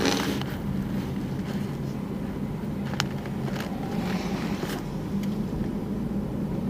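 A car driving, heard from inside the cabin: steady engine and road hum. There is a short burst of noise at the start and a single sharp click about three seconds in.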